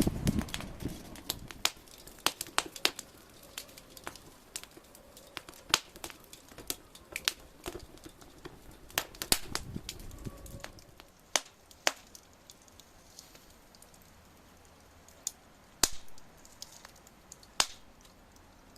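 Wood bonfire crackling: irregular sharp snaps and pops, a few of them louder than the rest, over a quiet background.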